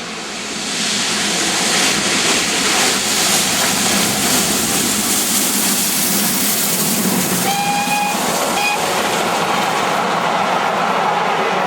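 A train passing close by, its running noise swelling over the first couple of seconds and then holding loud and steady. A short high tone sounds about seven and a half seconds in and again briefly just under nine seconds.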